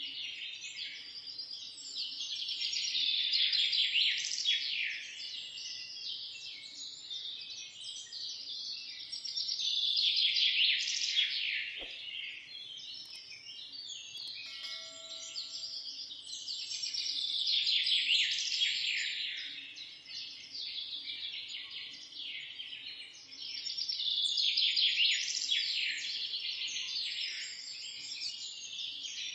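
Many small birds chirping and singing in a dense chorus of quick, high notes. It grows louder and fades back four times, about every seven seconds.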